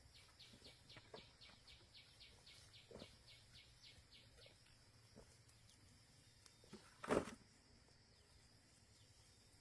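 A bird's rapid trill of about twenty short, high, falling notes, some five a second, lasting the first four seconds or so. A single sharp thud about seven seconds in is the loudest sound.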